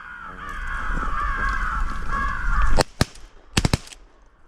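Harsh crow cawing, dense and continuous for nearly three seconds, then a rapid volley of about five shotgun shots from several hunters firing at an incoming crow.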